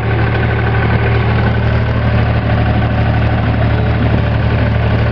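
Farm tractor engine running steadily with a constant low drone.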